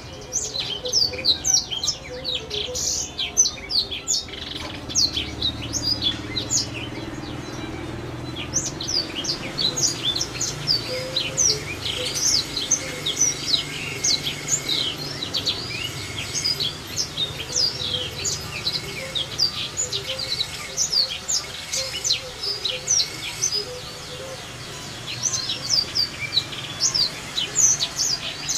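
Small songbird singing a rapid, continuous run of short, high chirping notes.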